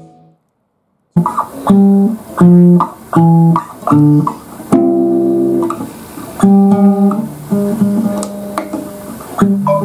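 Background music: a Vanzandt Bronson guitar playing a phrase of single plucked notes over a Fender Mustang bass, starting about a second in after a brief silence.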